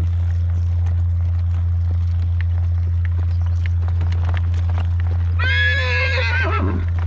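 A horse whinnies once, about five and a half seconds in: a call of about a second and a half that drops in pitch at the end, a call that the handler reads as loneliness. Faint hoofbeats and a steady low rumble of wind on the microphone run underneath.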